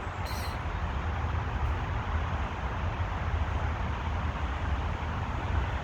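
Steady outdoor background noise with a low rumble, even throughout.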